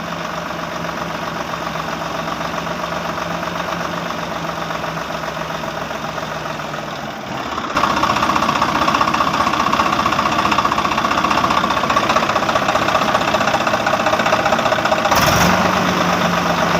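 A small motor running steadily; about eight seconds in it turns louder and brighter and keeps running.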